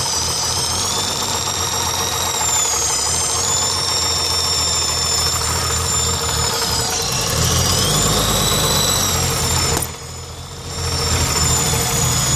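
BMW M20B25 straight-six running with the valve cover off, the valvetrain exposed, with a knock that the owner traces to the exhaust manifold area and does not take for worn bearings. The sound drops briefly in level about ten seconds in.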